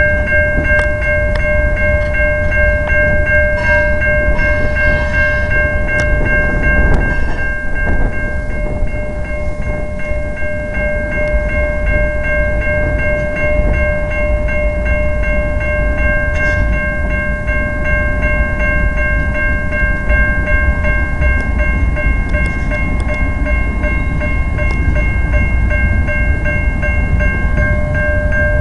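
CN freight trains rolling past: a steady low rumble of diesel locomotives and freight cars, with a continuous high-pitched squeal of several steady tones over it and a few metallic clanks about four to eight seconds in.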